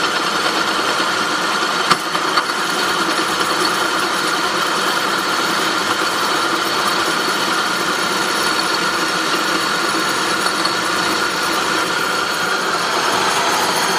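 2003 Saab 9-5 engine running steadily with a metallic grinding noise from the engine bay, a fault sound the owner cannot place. A sharp click about two seconds in.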